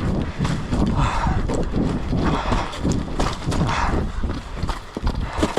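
A person running on foot, footfalls landing in a steady rhythm, with hard breathing from the effort.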